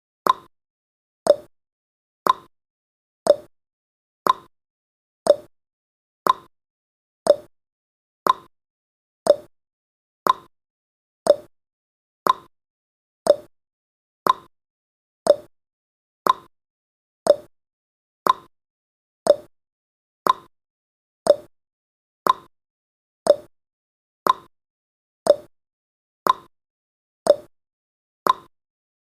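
Clock-tick sound effect of a countdown timer: one short, sharp tick every second, evenly spaced, with silence between ticks.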